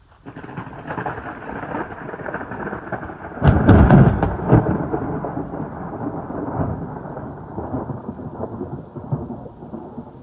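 Thunder: a rumble that starts suddenly, breaks into a loud crash a few seconds in, then rolls on and slowly fades.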